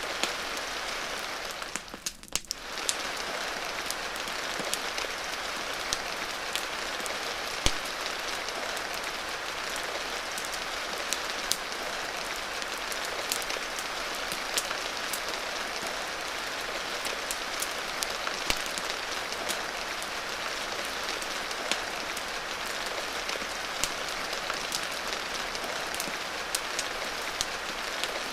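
Steady rain hiss with scattered sharp crackles and pops from a wood fire throughout. The hiss briefly thins about two seconds in.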